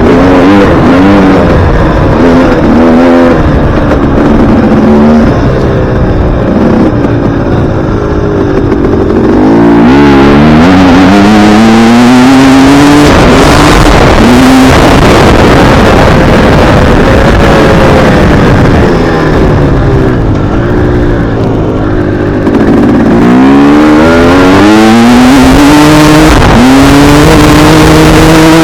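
Dirt bike engine revving, loud and close, its pitch climbing and dropping repeatedly as the throttle is opened and closed while riding.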